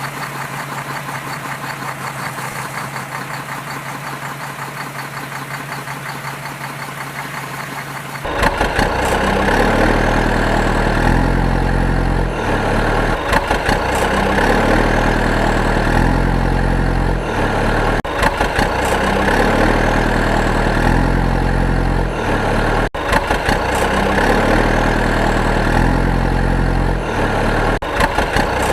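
An engine running steadily, then suddenly much louder and rougher about eight seconds in.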